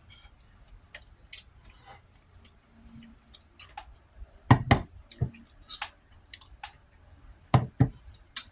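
Close-up eating sounds: chewing with scattered small mouth clicks, and a few louder, fuller bursts about halfway through and again near the end.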